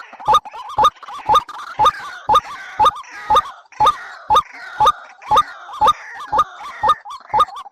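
A bird's call played as a trapping lure, repeated about twice a second in an even rhythm, each call a sharp note rising to a short whistle, with fainter chatter between the calls.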